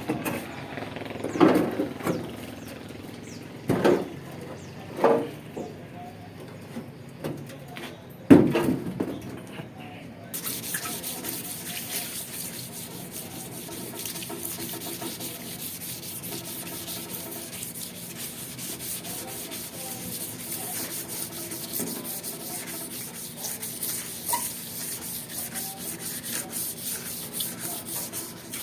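Hand sanding the rusted sheet-metal top of a range exhaust hood with sandpaper: a steady scratchy rubbing that sets in about ten seconds in. Before it come a few sharp knocks, the loudest about eight seconds in.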